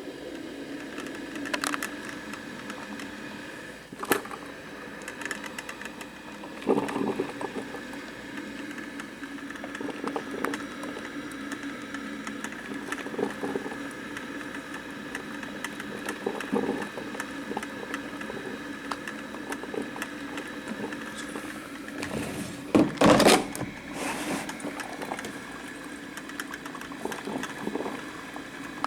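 Black & Decker thermal carafe drip coffee maker brewing water: a steady hum and hiss with scattered clicks and pops, and one louder burst about three-quarters of the way through.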